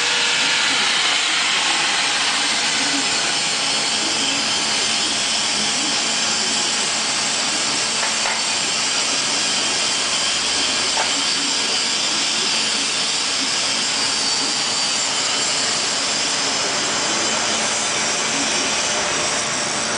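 An end grinding machine running steadily, giving a continuous high hiss of grinding with a faint steady high tone over it.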